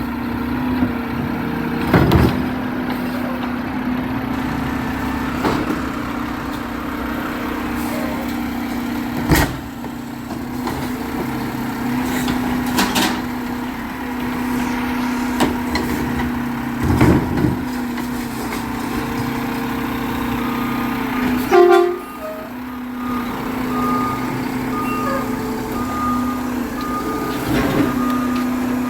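Garbage truck engine running steadily, with scattered clanks and knocks. About three-quarters of the way through comes a loud short burst, followed by a steady series of short beeps, like a backup alarm.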